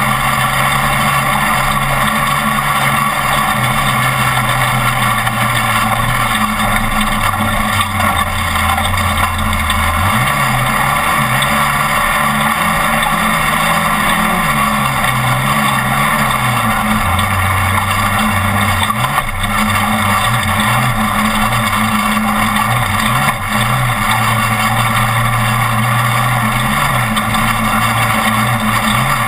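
Class 1450 off-road race truck's engine running hard under a constant rush of noise. The engine note dips and climbs back several times as the revs change.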